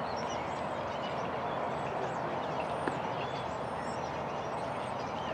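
Small birds chirping over a steady outdoor background hiss, with one sharp knock about three seconds in.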